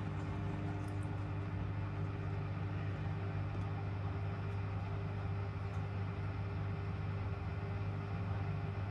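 Miele W1 washing machine running with a steady, even motor hum.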